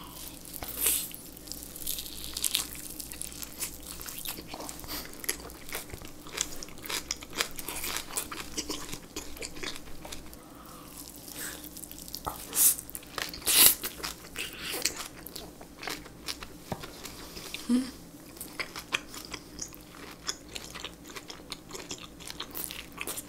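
Chewing a mouthful of boiled pork belly wrapped in kimchi with a raw oyster: many short wet clicks and crunches from the kimchi cabbage. The loudest crunches come a little past the middle.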